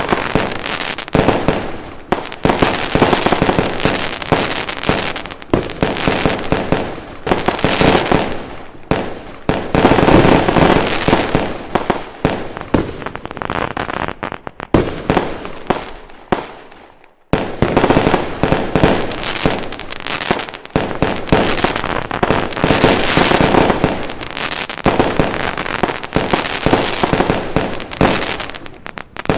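Fireworks going off in dense volleys of rapid bangs and crackling, with a brief break a little past halfway before the volleys resume.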